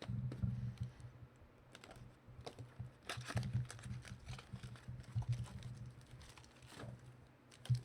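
Trading-card packaging and cards being handled: a run of light clicks, taps and rustles.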